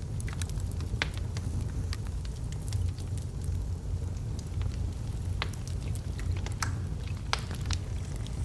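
Wood fire burning in a fireplace: a steady low rumble of the flames with irregular sharp crackles and pops from the logs, a few louder pops in the second half.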